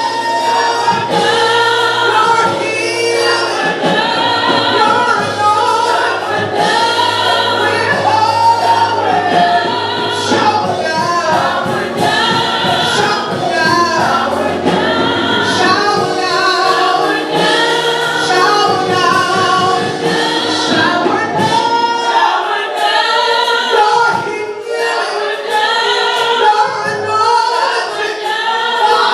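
Choir singing gospel music over sustained keyboard or organ chords, with the bass dropping out for a few seconds about two-thirds of the way through.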